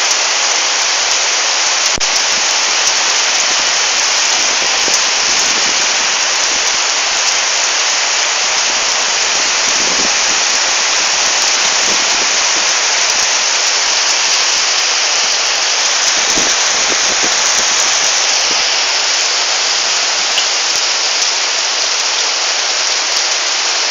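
Heavy rain pouring steadily in a windy storm: a loud, even hiss that does not let up.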